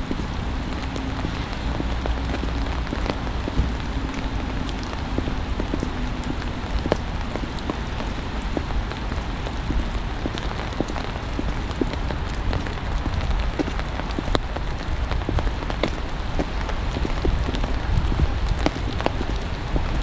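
Steady fall of mixed rain and wet snow, heard as an even hiss with many small, sharp drop ticks throughout, over a steady low rumble.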